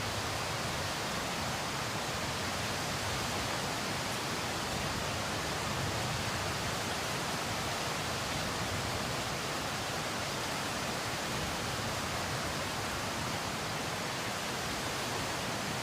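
Steady rushing water noise, even and unbroken, as of heavy rain or fast-flowing floodwater.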